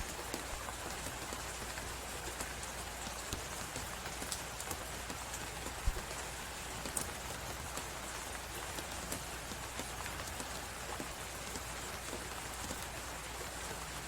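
A wood fire crackling with scattered sharp pops, one heavier pop about six seconds in, over a steady hiss of blizzard wind.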